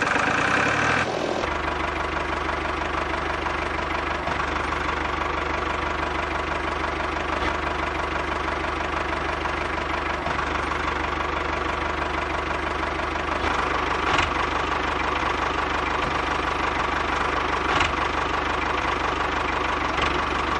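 Miniature toy-scale diesel engine running steadily.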